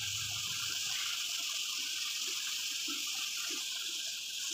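Chicken pieces and sliced onions sizzling steadily in hot oil in a steel kadai, a constant even hiss.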